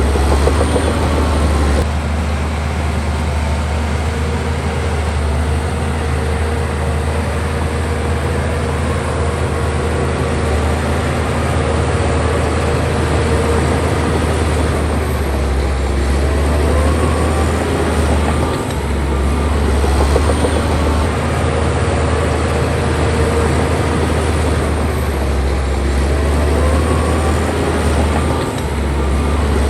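Bulldozer's heavy diesel engine running under load with a loud, steady low drone and the noise of the machine working, dipping briefly twice.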